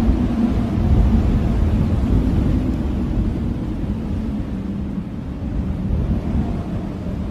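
Strong blizzard wind blowing steadily as a low rushing noise, easing slightly about midway and building again.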